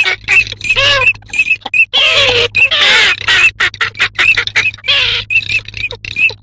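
Dabbling ducks calling; the recording is of garganey, Eurasian teal and northern shoveler. A short high note repeats several times a second, broken by louder calls that rise and fall in pitch, over a steady low hum.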